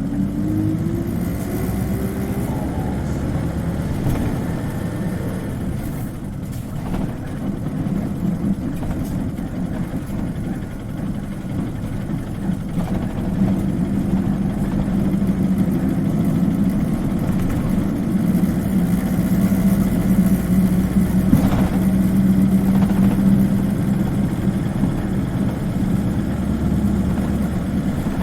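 Isuzu Cubic KC-LV380N city bus heard from inside the cabin, its diesel engine pulling the bus along. A whine rises in pitch over the first few seconds as it accelerates, then settles into a steady low drone, with a brief knock about two-thirds of the way through.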